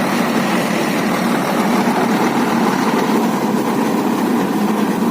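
Tractor and harvesting machine running with a steady engine drone.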